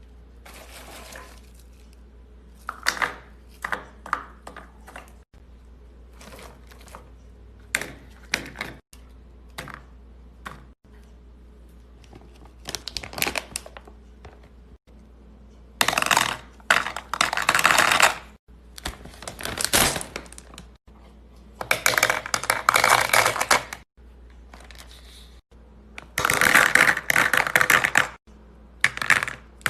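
Bursts of crisp crunching and crackling from a material being handled: short ticks and crackles at first, then longer, louder crunching stretches of a second or two from about halfway in.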